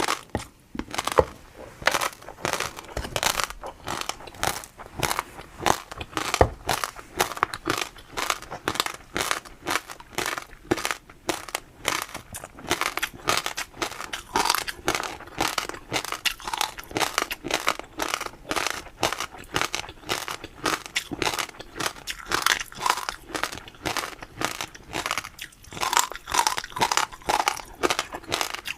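Close-miked crunching and chewing of crisp food, a quick run of crackling bites several times a second.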